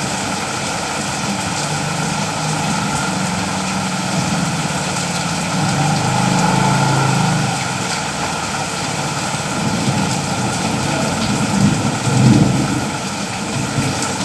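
Steady rain falling, a continuous even hiss, with a low rumble underneath that swells around the middle. Two brief louder bumps come near the end.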